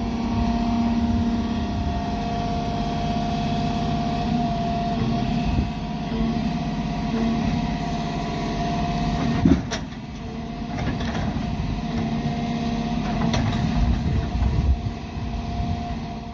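Log truck's engine running steadily, with a single clank about nine and a half seconds in.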